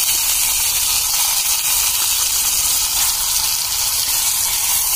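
Onion paste sizzling steadily in hot oil and ghee in a small kadai as it is stirred.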